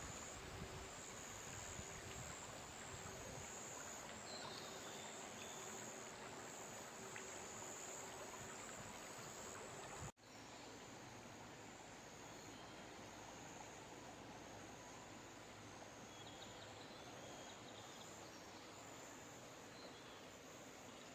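Faint forest ambience: insects calling in a high, regularly repeating pulsing chirr over a steady soft hiss, with a momentary break in the sound about ten seconds in.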